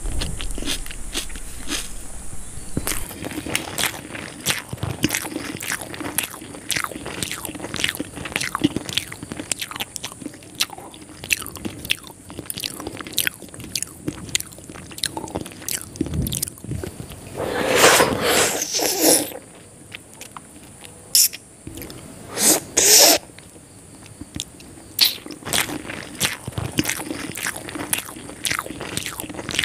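Biting and chewing a fried chicken lollipop: a steady run of crunching and wet mouth clicks, with a few louder crunches a little past the middle.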